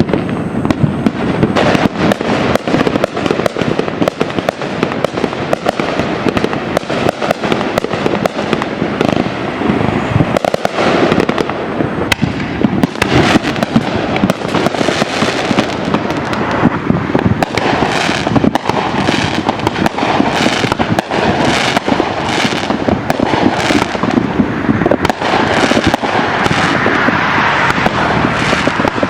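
Fireworks and firecrackers going off in a dense, continuous crackle of bangs and pops, with stronger bursts coming about once a second in the second half.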